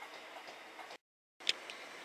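Electric trains on the line through a station platform: steady rail noise with light wheel clicks. The sound drops out completely for a moment about halfway through, then a passing train's wheels give a sharp click over the rail joints.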